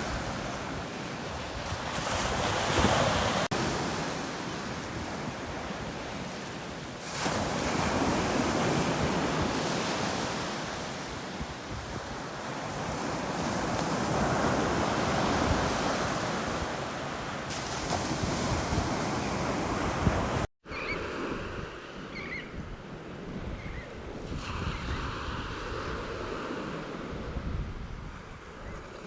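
Surf on a Gulf of Mexico beach: waves breaking and washing in, swelling and easing every few seconds, with wind buffeting the microphone. About two-thirds of the way through the sound drops out for an instant, and the surf then comes back softer and duller.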